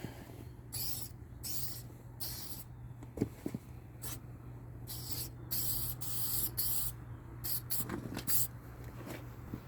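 Aerosol can of Meguiar's Keep Clear headlight coating spraying in about ten short hisses, each half a second or less, laying the second coat on a headlight lens.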